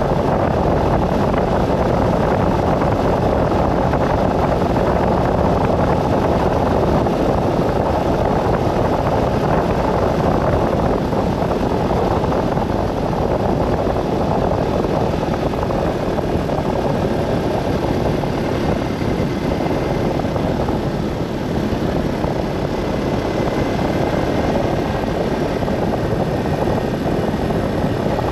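Steady, continuous road noise of a vehicle driving along a highway: engine, tyre and wind noise blended into an even rumble.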